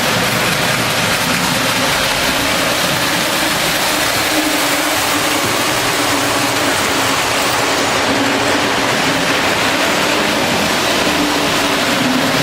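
O gauge model GG1 locomotive running on its track: a steady electric motor hum that wavers slightly in pitch, over a constant rumble of wheels on the rails.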